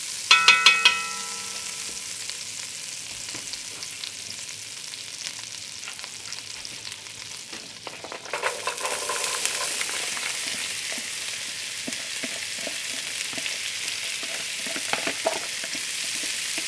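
Butter sizzling in a hot cast-iron Dutch oven, with metal tongs clinking sharply against the pot about half a second in. About eight seconds in, diced onion, celery and carrot go into the fat and the sizzle grows louder, with tongs clicking and scraping as the vegetables are pushed around.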